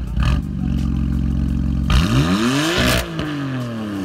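BMW F82 M4's twin-turbo inline-six, fitted with an ARMYTRIX valvetronic exhaust, idling and then revved once: the pitch climbs for about a second, then falls back to idle near the end.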